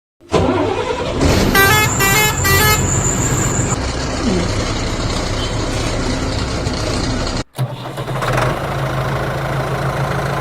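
A truck engine sound running, with three short horn honks in quick succession about one and a half to two and a half seconds in. The engine sound cuts off abruptly past the middle and a second engine sound takes over.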